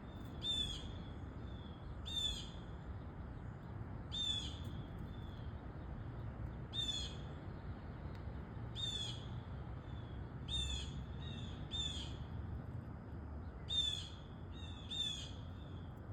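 Blue jay calling: short, harsh, high calls repeated about every two seconds, a few of them in quick pairs.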